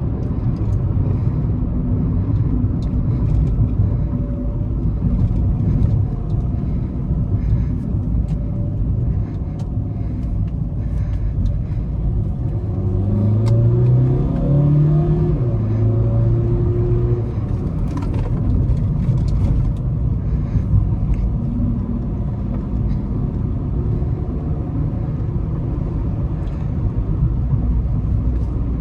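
VW Vento 1.5 TDI four-cylinder diesel engine and exhaust running with a steady low rumble. About halfway through it rises in pitch in two quick steps as it accelerates.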